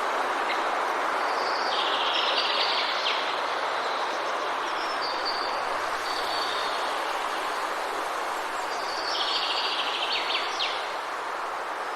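Forest ambience: a steady rushing hiss with birds calling over it, their short high notes coming every few seconds and a denser trill about two seconds in and again about ten seconds in.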